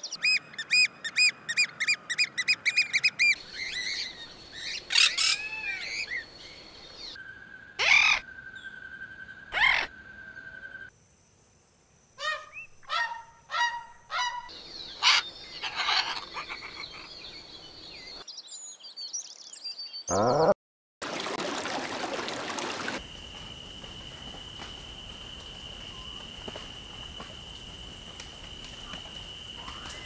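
Bird calls spliced one after another: a quick run of about eight honking calls, then scattered shrill calls and squawks. A short burst of hiss comes just after twenty seconds, and a steady high tone over an even hiss follows to the end.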